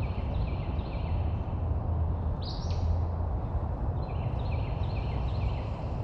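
An Acadian flycatcher gives one sharp, rising call about halfway through. Another songbird sings a quick series of short repeated notes at the start and again near the end, over a steady low rumble of distant highway traffic.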